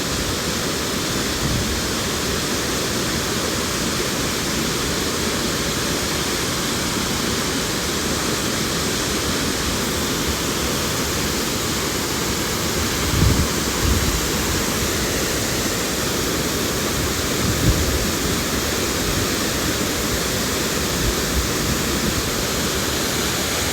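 Waterfall in flood, a steady heavy rush of water. A few short low thumps about halfway through.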